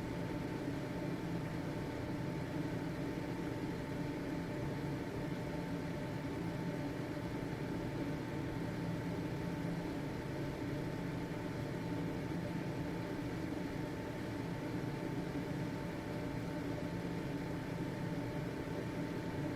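Household ventilation fan running steadily: an even whirring hiss of moving air with a motor hum and a faint steady whine.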